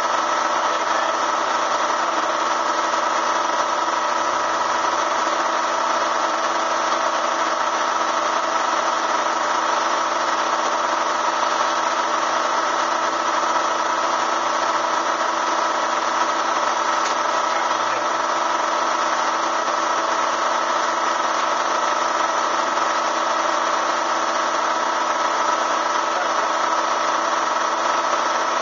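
Bee vacuum motor running steadily without a break, a constant machine drone with a strong hum around the middle of the range.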